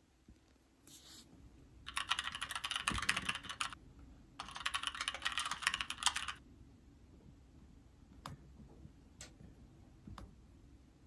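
Typing on an iPad keyboard: two quick runs of keystrokes of about two seconds each, then a few single key taps spaced about a second apart.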